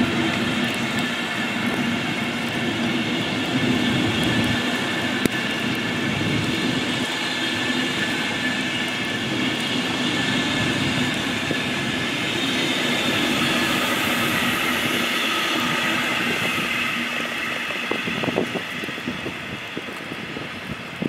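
A train running past on the tracks: a steady rumble of wheels on rails with a high, many-toned whine over it, fading away near the end.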